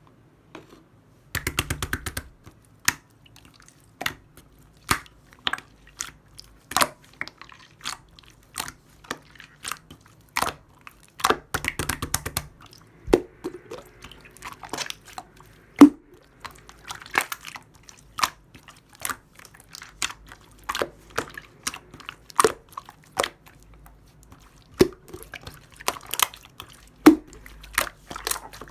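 Hands playing with a stiff, chewy slime: sharp pops and clicks about once a second, with two short runs of rapid crackling, one near the start and one about halfway through.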